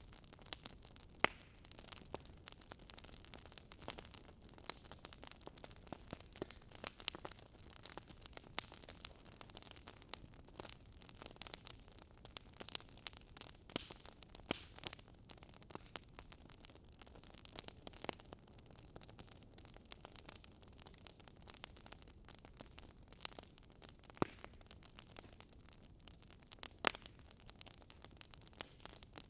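Wood fire crackling: irregular sharp pops and snaps over a soft steady hiss, a few pops louder than the rest.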